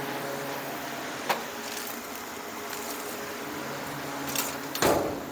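Steady machine hum, like a fan or air-conditioning unit running, with a single sharp click about a second in and a brief, louder scuffing sound near the end.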